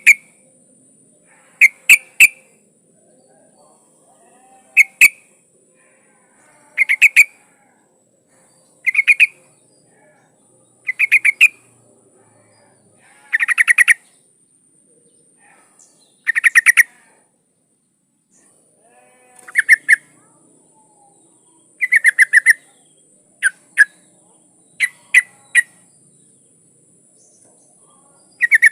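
Female yellow-vented bulbul (trucukan) calling to draw a male: short bubbly phrases of a few quick notes, repeated every two to three seconds.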